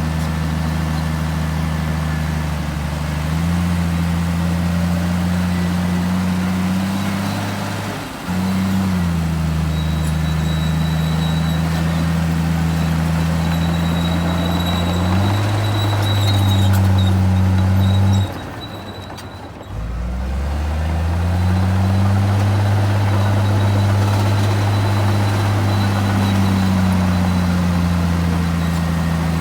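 Komatsu D58E1 bulldozer's diesel engine running under changing load, its pitch rising and falling as the throttle changes. It dips briefly about a quarter of the way through, then drops sharply and nearly dies away about two-thirds of the way through before picking back up and running steadily again.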